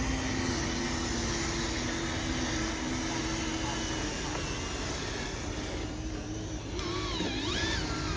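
Steady running noise of RC model construction trucks, with a faint steady motor whine through most of it and some faint wavering pitched sound near the end.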